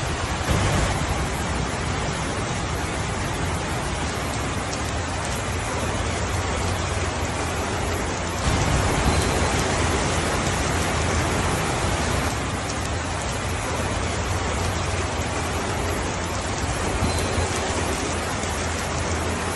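Steady rain falling, a dense even hiss that grows a little louder about eight and a half seconds in.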